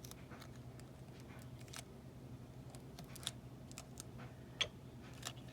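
Scattered light clicks and soft rustles of paper card and tape being handled on a tabletop, over a steady low hum.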